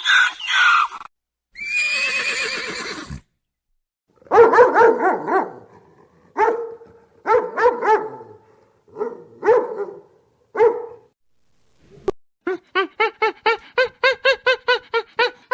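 Animal calls in separate short clips. First a string of single calls about a second apart, then a quick, even run of short calls near the end, about four a second.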